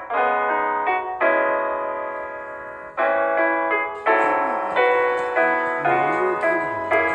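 Background piano music: chords struck about once a second, each ringing and fading away. About four seconds in, a wavering lower melody line and a faint hiss join the piano.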